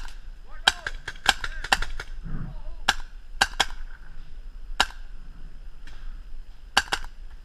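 Paintball markers firing: sharp pops at irregular intervals, some in quick clusters of two or three shots and others single.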